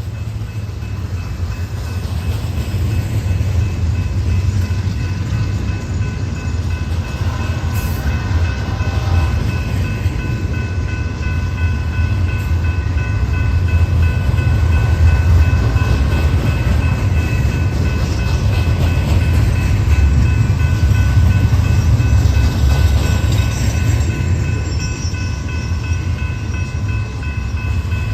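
Train rolling past on the rails: a steady low rumble that swells through the middle, with faint steady high-pitched tones over it.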